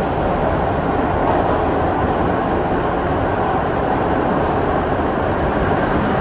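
Kawasaki R62 subway train running, heard from on board: a steady, even noise of wheels on rail and motors, without distinct breaks.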